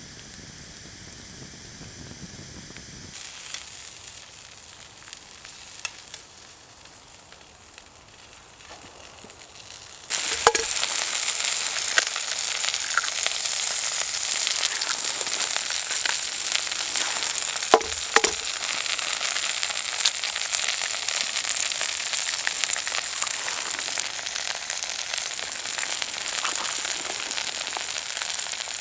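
Food frying in a pan over a campfire: quiet at first, then, about a third of the way in, a sudden loud, steady sizzle with a few sharp pops, as food goes into the hot pan.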